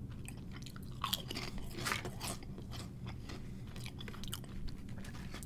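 A person eating a crisp potato chip: a few sharp crunches spread out among softer chewing.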